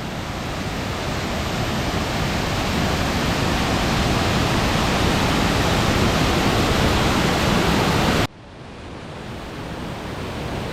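Waterfall rushing as a steady loud roar that swells over the first few seconds, breaks off sharply about eight seconds in and builds up again.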